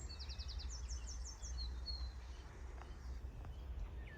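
Small birds chirping: quick high-pitched runs of short notes in the first second and a half, then scattered single calls, over a low steady rumble.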